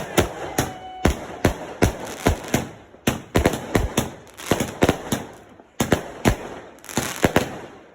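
Fireworks going off: a quick, uneven string of loud bangs, about two to three a second, with a short pause a little past halfway before they carry on.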